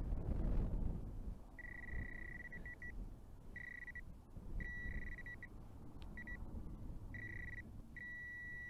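Metal detector sounding a high steady tone in repeated on-off stretches, some breaking into quick pulses, as it is passed over a buried target in the loose soil being searched. Low rustling and handling noise runs underneath, strongest in the first second.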